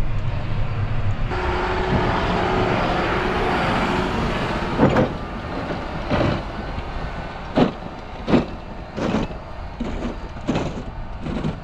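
John Deere 6145R tractor's six-cylinder diesel running under load while its blade pushes deep snow, with a spread of hiss rising about a second in. In the second half comes a string of sharp thumps, roughly one a second.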